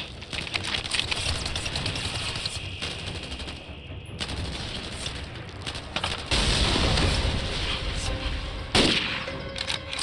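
Battle gunfire on a war film's soundtrack: a dense, continuous exchange of rifle and machine-gun fire, growing louder about six seconds in, with one sharp louder report near nine seconds.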